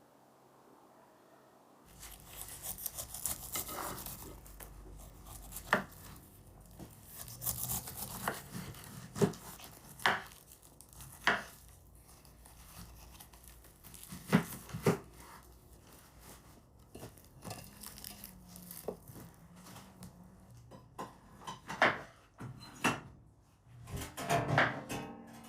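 Irregular knife knocks on a wooden cutting board, with softer scraping and tearing between them, as food is cut and handled. The sound starts about two seconds in.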